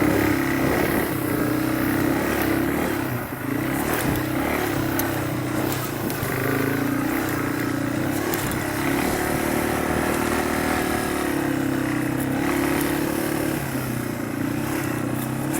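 Motorcycle engine running steadily at low speed as the bike is ridden slowly.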